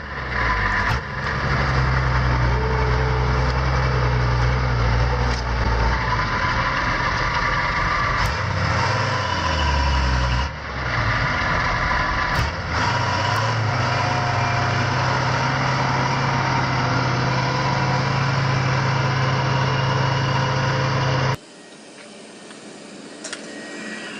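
Heavy vehicle engine running loudly, its pitch shifting a few times as it revs up and down. It cuts off abruptly near the end to a much quieter, different scene.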